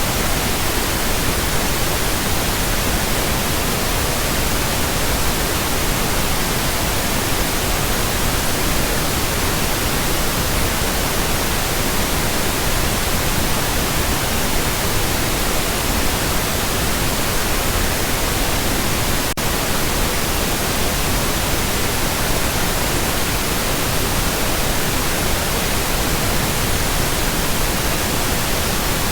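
Steady pink noise: an even, unchanging hiss spread across all pitches, with a momentary dip about nineteen seconds in.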